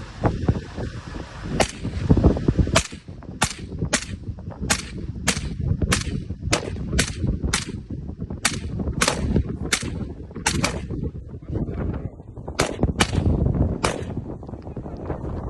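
Gunfire: about twenty single sharp shots, fired unevenly from a third of a second to a second apart with a short pause partway through, over a steady low rumble.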